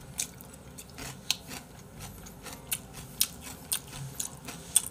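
A person chewing a mouthful of sushi close to the microphone. Irregular short, sharp clicks and smacks are spread through it.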